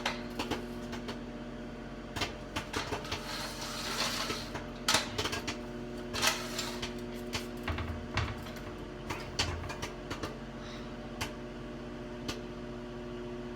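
Kettle corn popping in a microwave popcorn bag, sharp irregular pops over the steady hum of the running microwave oven. The pops thin out toward the end as the batch nears done.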